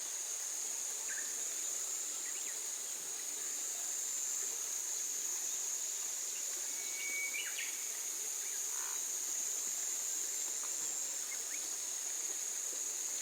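Steady high-pitched insect chorus, with a few faint short bird chirps scattered through it, the clearest about seven seconds in.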